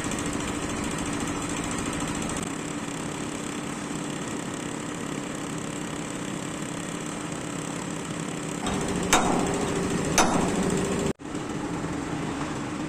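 A steady mechanical drone with a low hum, like a running engine. Two sharp metal knocks, like hammer blows, come about a second apart near the end, followed by a sudden brief cut-out.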